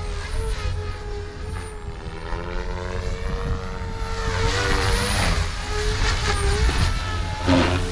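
OMPHOBBY M4 electric RC helicopter in 3D flight at a 2700 rpm head speed: the whine of its rotors and motor rises and falls in pitch and swells as it manoeuvres. Heavy wind rumble on the microphone runs underneath.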